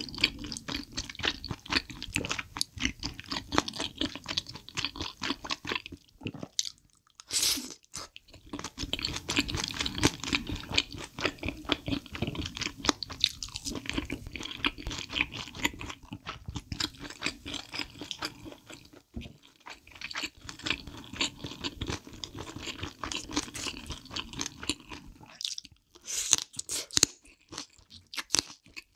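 Close-miked wet chewing of spicy chicken feet, the skin and cartilage crunching in quick, dense clicks, broken by short pauses about seven seconds in and near the end.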